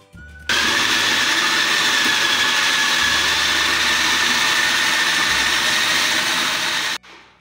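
Electric food processor running, its blade mincing raw chicken with onion, chillies, coriander and spices. A steady motor whine sits over the noise of the chopping; it starts about half a second in and cuts off suddenly near the end.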